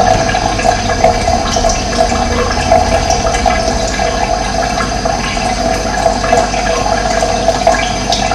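Running water: a steady rush.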